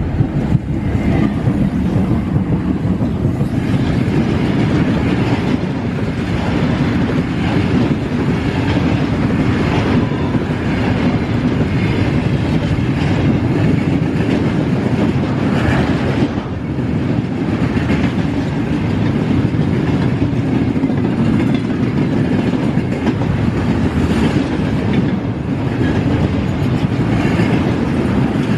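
A train running along the rails: a loud, steady rumble of wheels on track with occasional sharper clatters.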